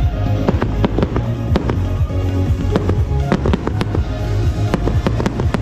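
Fireworks bursting, with many rapid sharp cracks and crackles, over music with a steady bass line.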